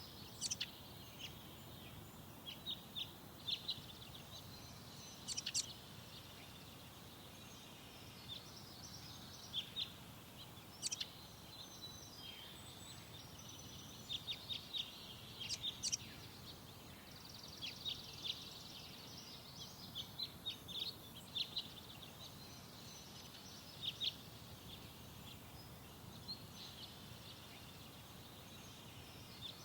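Several songbirds chirping and calling in short, high, sharp notes, scattered irregularly throughout, with several notes clustered together at times, over a faint steady low background rumble.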